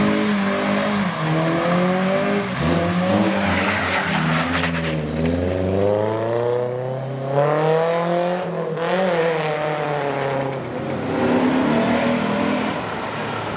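Car engine revving hard, its pitch climbing for several seconds from about two seconds in, then dropping and rising again, over a hiss of tyre noise.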